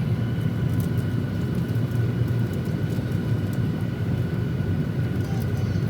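Steady cabin hum inside a Boeing 737-800: a constant low rumble with faint, even whining tones above it.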